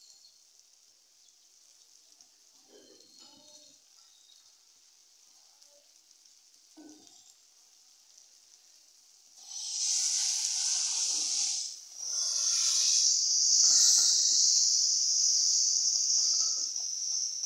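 Faint sizzle of tomato masala frying in a kadai. About halfway through it turns to loud sizzling as green peas go into the hot oil, with a short dip before it picks up again under a stirring spatula.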